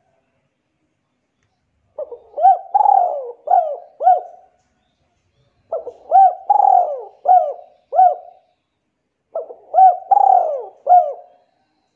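A bird calling: three phrases a couple of seconds apart, each a run of about five short, low notes that rise and fall in pitch.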